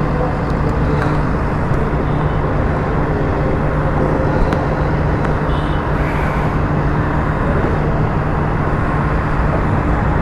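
Motorcycle engine running at a steady, unchanging pitch under a loud even rush of road and wind noise.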